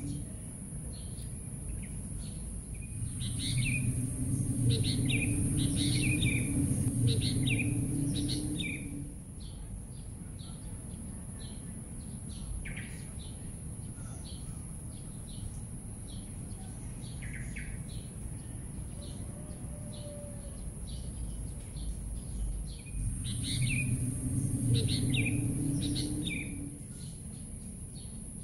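Birds chirping in short, repeated calls over a steady high hiss, with a low rumble that swells twice, about three seconds in and again near the end.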